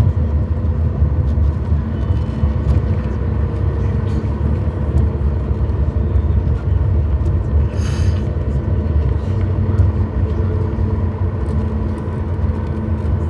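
Steady low rumble of a running vehicle, with a constant hum over it.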